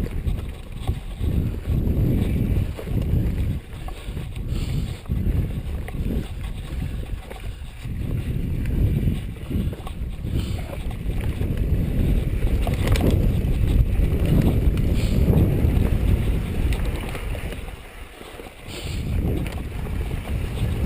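Wind buffeting the microphone of a camera riding on a cross-country mountain bike, a gusting low rumble with knocks and rattles from the bike over rough trail; it drops briefly near the end.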